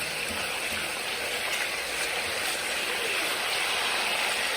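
Bone-in chicken pieces frying in plenty of hot oil, a steady sizzle as the chicken starts to brown.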